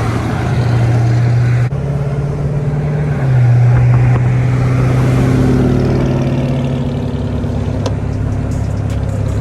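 Car engine droning steadily while driving, its pitch shifting twice in the first few seconds.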